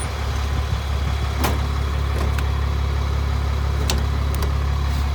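The bus's rear-mounted Cummins 8.3-litre inline-six turbo diesel idling steadily with a low hum. Two brief clicks are heard over it, about a second and a half in and again near four seconds.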